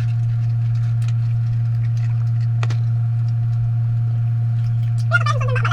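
A loud, steady low electrical-type hum with a fainter steady higher tone over it, broken by scattered small clicks. A short burst of voice comes near the end.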